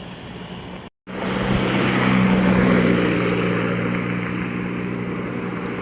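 An engine running with a steady low drone and a rushing noise, starting after a brief dropout about a second in and loudest a second or two later.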